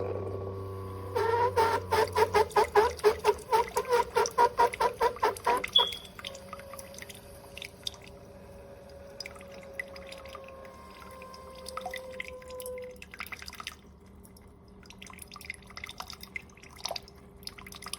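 Instant Pot Solo single-serve coffee maker's pump pulsing rhythmically, about four times a second, for several seconds and then stopping, followed by faint gurgling and dripping. The owner suspects the pump may be failing, since the brew comes out watery.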